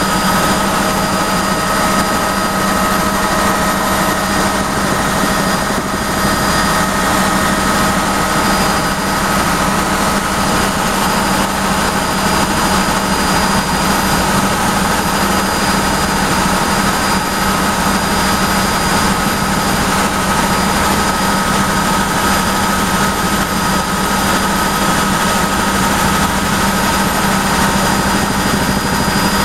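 Helicopter engine and rotor noise, a loud, steady drone with a constant hum and whine.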